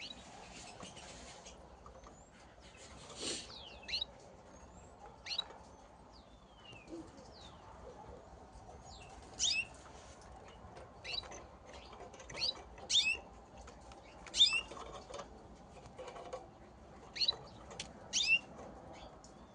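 Gloster canaries squabbling: a short burst of wing flapping near the start, then a dozen or so short, sharp chirps scattered through the rest.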